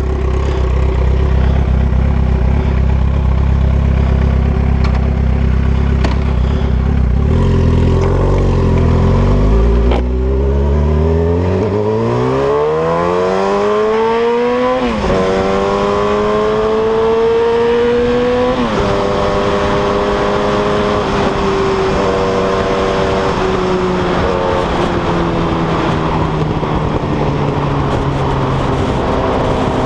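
Yamaha R1 RN09's inline-four engine running with no exhaust, heard on board. It runs low and steady at first, then revs up hard from about ten seconds in. The pitch drops sharply at two quick upshifts a few seconds apart, then settles and eases down near the end, over a constant rush of noise.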